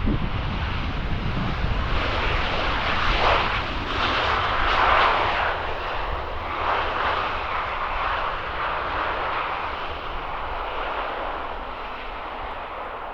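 Boeing 737-800 jet engines (CFM56) as the airliner passes on arrival, a broad rushing noise that swells to its loudest about four to five seconds in and then slowly fades.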